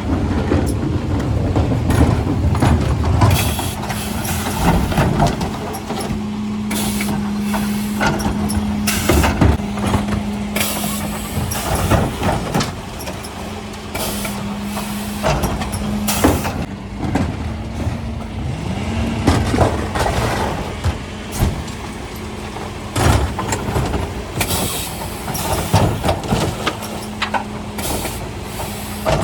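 Mercedes Econic refuse truck with a Faun Variopress body at work. The engine holds a steady hum that rises in pitch once, a little before the two-thirds mark, while bins and waste bang and clatter again and again at the lifter and hopper.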